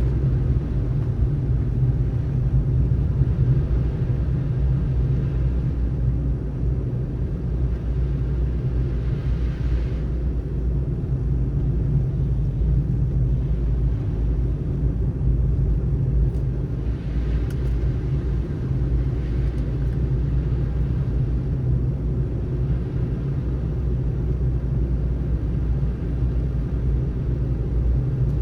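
A car driving on a snowy road: a steady low rumble of tyres and engine, with a higher hiss that swells up a few times.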